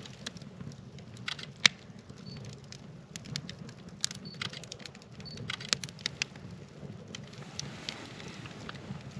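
Wood fire crackling, with irregular sharp pops and snaps over a low steady rumble; one loud snap comes nearly two seconds in.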